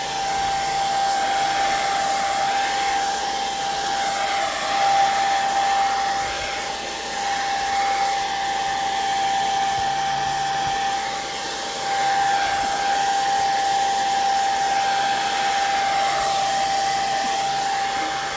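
Handheld hot-air dryer running steadily, a blowing rush with a steady whine in it, drying wet ink and watercolor paint on paper.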